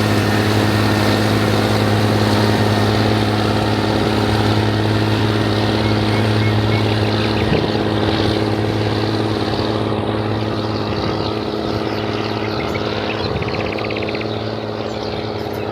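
Rába 250 tractor's diesel engine running steadily with an even, low hum, easing a little in loudness over the second half.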